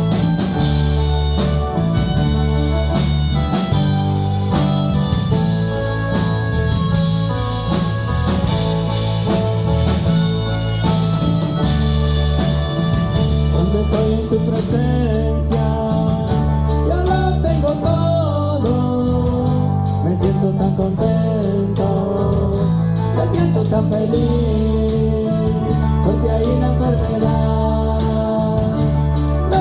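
Live church worship band playing with a steady beat over a heavy bass line; from about halfway a melody line with sliding, bending notes comes in over it.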